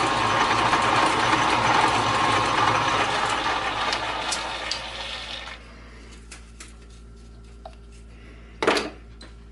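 Lathe running after drilling a hole to depth, then switched off and spinning down about five seconds in, leaving a low hum. A brief scrape or clunk near the end.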